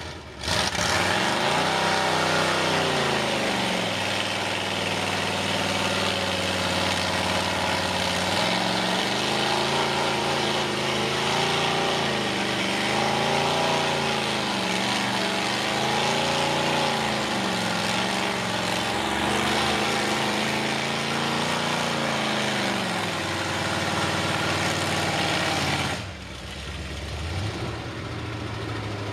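Loud Ford 460 big-block V8 on open headers in a mega mud truck, revving hard with its pitch climbing and falling again and again. About 26 seconds in it drops suddenly to a much quieter, lower run.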